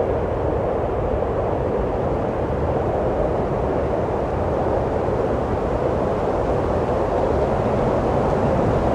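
Steady wind blowing, a low, even rushing rumble that grows slightly louder near the end.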